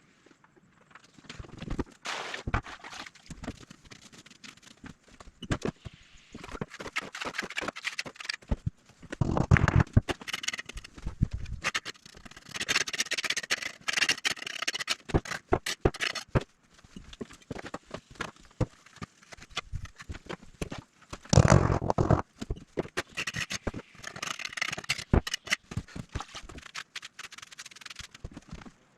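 Irregular taps, knocks and scraping, with louder knocks about a third of the way in and again about three quarters of the way through.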